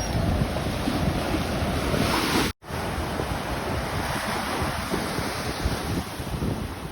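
Ocean surf breaking on the beach, with wind buffeting the microphone. The sound drops out completely for an instant about two and a half seconds in.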